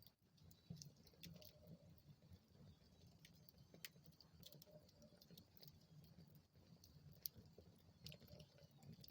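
Wood fire burning in a fireplace, faint: irregular sharp crackles and pops over a soft low rumble, with one louder pop about seven seconds in.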